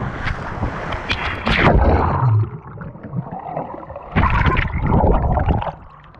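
Irregular rushes of wind and splashing surf on the microphone, surging loudest twice, about a second and a half in and again about four seconds in.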